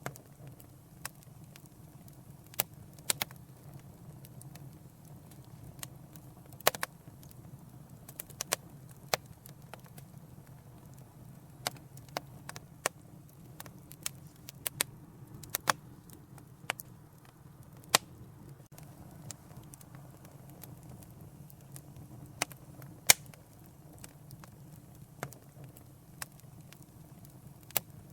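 Wood fire crackling in a fireplace: irregular sharp pops and snaps, the loudest about 23 seconds in, over a steady low rumble of the flames.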